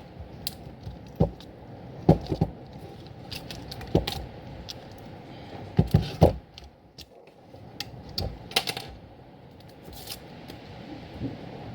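Irregular clicks, knocks and scrapes of a blown speaker being handled and worked on to take it apart.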